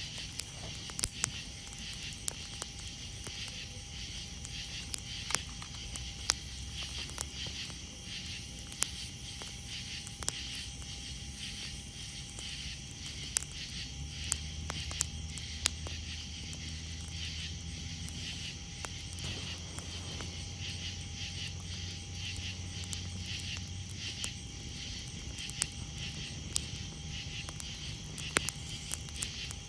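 Wood campfire crackling, with scattered sharp pops, over a steady pulsing chorus of night insects chirping. A low rumble swells in the middle for about ten seconds.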